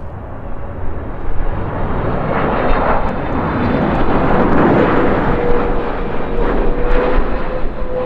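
Jet airliner passing close by, its engine roar building over a few seconds. A steady whine comes in about halfway through and holds, starting to sink slowly in pitch near the end.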